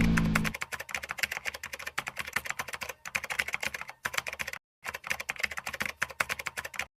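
Rapid, irregular keyboard-typing clicks with a brief pause about four and a half seconds in, ending abruptly just before the end. The loud motorcycle engine sound cuts off about half a second in as the typing begins.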